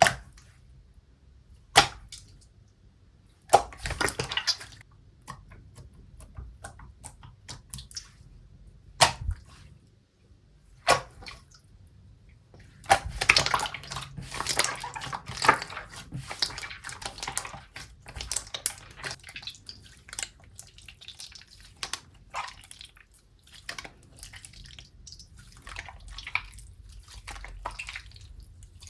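Slime being squeezed and stretched by hand: wet, sticky pops and clicks. A few sharp single pops come in the first half, then a dense run of crackling about halfway through that thins out afterwards.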